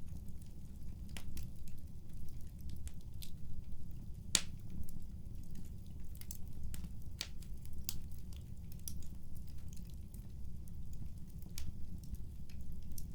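Wood fire crackling: irregular sharp pops and snaps over a steady low rumble, with one louder pop about four seconds in.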